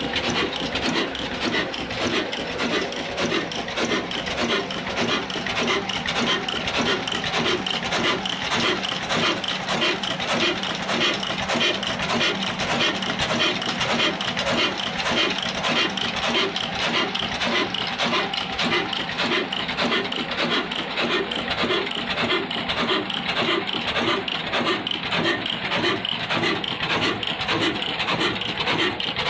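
Old Ruston Hornsby diesel engine running steadily while driving a flour mill (atta chakki), a dense mechanical clatter with a regular beat a few times a second.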